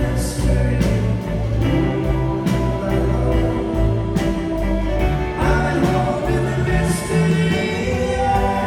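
Live rock band playing loudly, with a singing voice over sustained instruments and regular drum hits.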